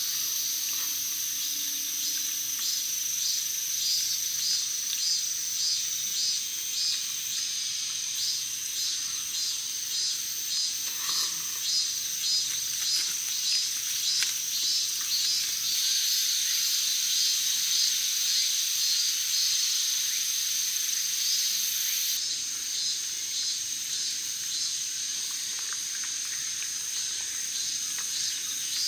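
Insects chirping in chorus: a steady high-pitched buzz with a pulsing chirp repeating about twice a second.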